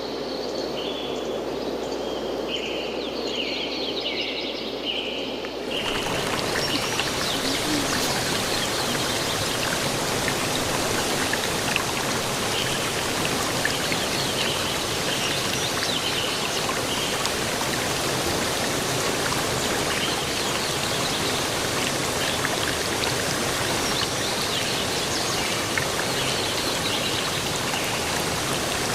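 Birds chirping repeatedly over a low outdoor rush for about six seconds. The sound then cuts suddenly to a steady, dense rush of water, with faint bird chirps still audible above it.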